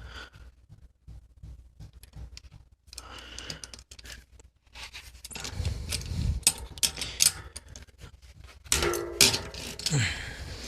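Metal clinking, clicking and scraping as a mountain bike's rear cassette is worked loose with a cassette tool and handled off the freehub. The clicks are irregular, with a busier clatter of metal near the end.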